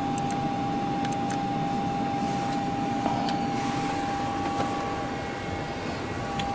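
Steady hum and hiss of a parked airliner's flight deck with its systems powered up and hydraulics pressurized, a constant high tone running through it and a few faint clicks in the first second or so.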